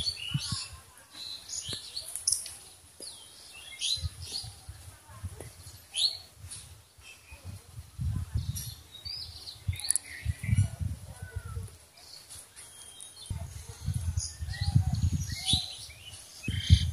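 Wild birds chirping, short scattered calls throughout, with a few stretches of low rumble underneath.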